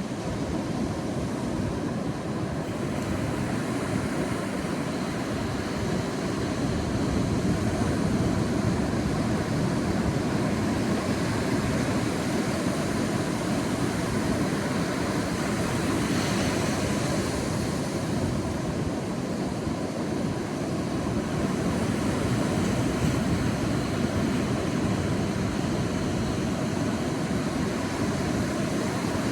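Sea waves washing onto a beach: a continuous rush of surf that swells and eases gently, with a brighter hiss of breaking water about sixteen seconds in.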